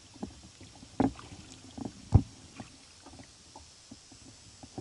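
Sounds of a kayak on the water: scattered light knocks and splashes, with two louder thumps about one and two seconds in.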